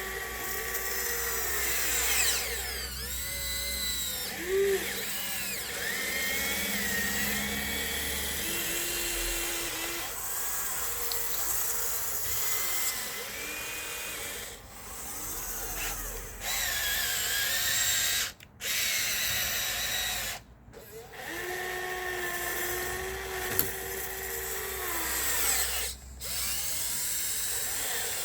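Electric motors and gearboxes of a Huina 1554 RC bulldozer whining, the pitch rising and falling again and again as the drive speeds up and slows down. The sound cuts out briefly three times in the second half.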